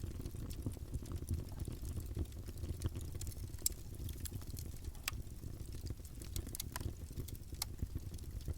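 Campfire burning: a steady low rush of flames with irregular wood crackles and pops, a few sharper snaps scattered through.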